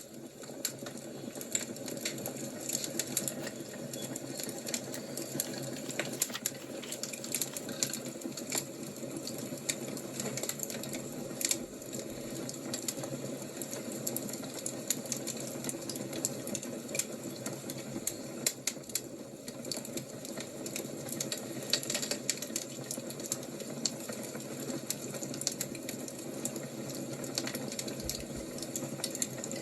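Fire crackling, with many small sharp pops and snaps over a steady low hiss.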